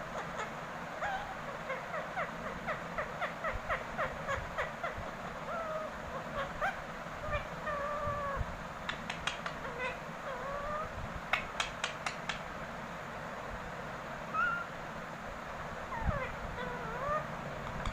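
Indian ringneck parrot chattering to itself with short gliding whistles and chirps. Its calls are broken by a fast run of clicks a few seconds in, and by clusters of sharp clicks about halfway through.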